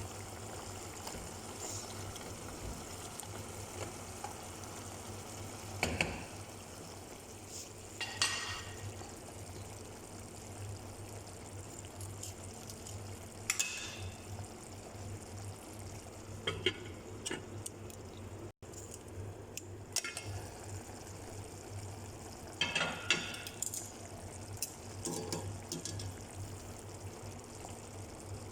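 Chicken adobo simmering and frying in a pan, a steady low sizzle, with a spoon now and then scraping and clinking against the pan as it is stirred.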